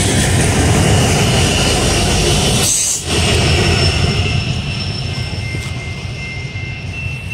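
BNSF freight train with diesel locomotives passing close by, a loud steady rumble of engines and rolling cars. About three seconds in it cuts to another close train, whose rumble slowly weakens, with a few thin high steady tones near the end.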